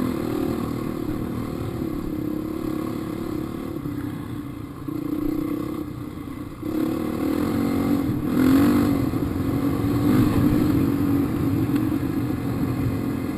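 Dirt bike engine under load, revving up and down while climbing a rocky hill. It eases off for a moment about five seconds in, then opens up louder again a couple of seconds later.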